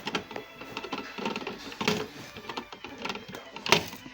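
Irregular mechanical clicking and clatter, with louder sharp knocks about two seconds in and near the end.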